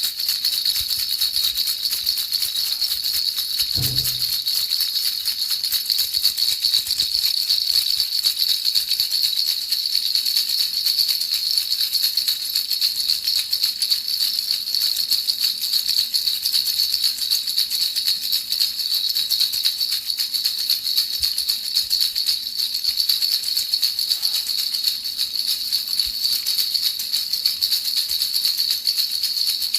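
Baby rattle shaken continuously: a fast, steady jingling rattle. There is a brief low thump about four seconds in.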